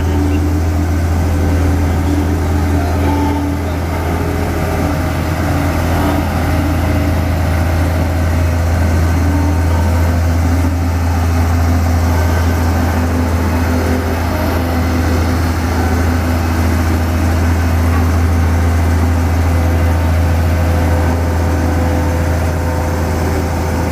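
Vibratory road roller's diesel engine running steadily with its drum vibrating: a loud, even, deep hum that holds unchanged throughout.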